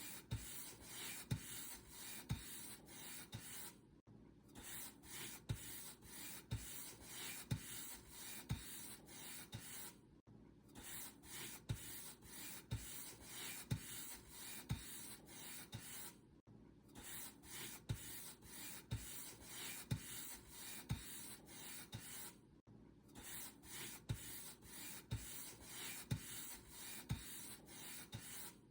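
Paint brush strokes brushing across a surface, a dry swishing about once a second, each stroke with a soft low tap. The strokes stop briefly about every six seconds, then carry on in the same pattern.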